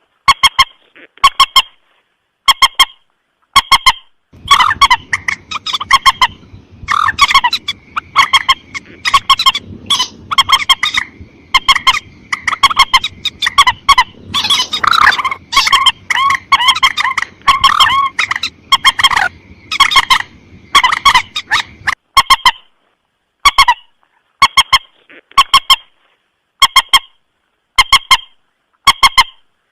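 Recorded lure call (suara pikat) of the mandar sawah, a rail: short calls repeated about once a second. From about 4 s they thicken into a dense run of overlapping calls over a low hiss, then thin back out to single calls at even spacing after about 22 s.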